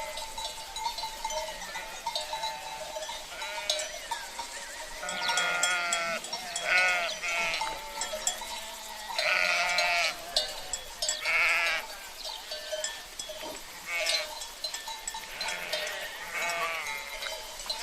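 A flock of sheep bleating, about six calls spread through the middle and end, over the ringing of cowbells.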